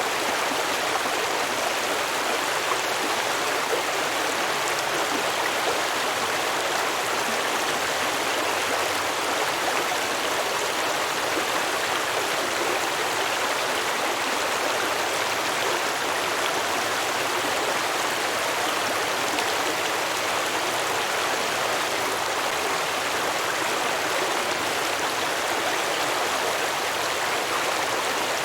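A small stream flowing and babbling over rocks, a steady rushing of water.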